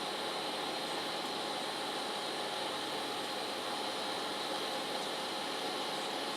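Welding arc hissing steadily as gaps in a steel two-stroke expansion-chamber exhaust pipe are filled with weld.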